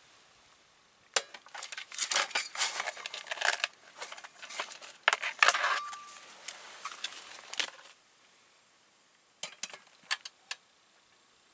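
Irregular clinking and clattering of camp cookware and utensils, busiest for the first several seconds, with a few separate clicks near the end.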